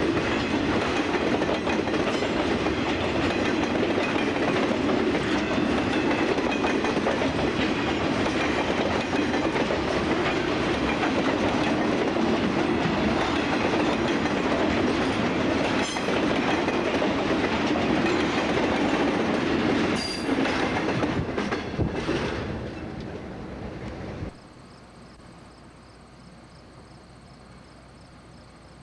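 Freight cars of a long CSX train rolling past, wheels clickety-clacking over the rail joints, dying away as the last cars pass about 22 seconds in. After a sudden drop about 24 seconds in, a faint steady chirring of crickets.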